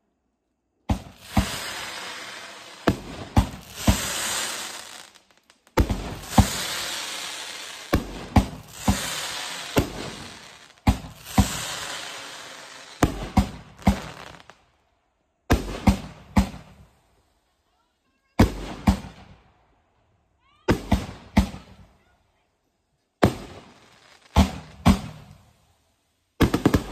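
Aerial fireworks going off close by: a long run of sharp launch thumps and bursts, mostly in clusters of two or three, each followed by a crackling hiss of falling sparks that dies away, with short silent gaps between the clusters.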